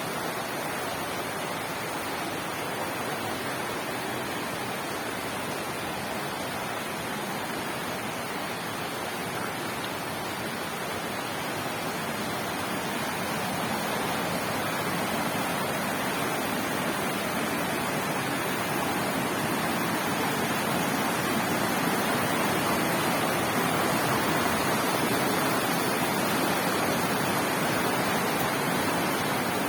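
Rushing water of a mountain stream, a steady, even wash that grows a little louder about halfway through.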